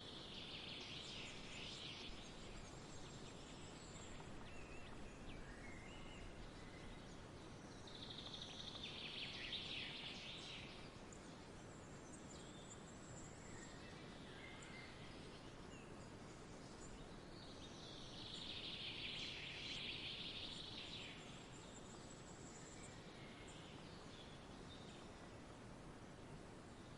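Faint bird calls over a steady hiss: three bursts of high-pitched song, each two to three seconds long and roughly nine seconds apart, with single short chirps between them.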